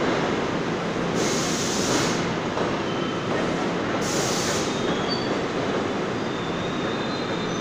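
NJ Transit commuter coaches rolling past a platform in an underground station: a steady rumble of wheels on rail, with two brief hissing bursts about a second and four seconds in, and faint high wheel squeals near the end.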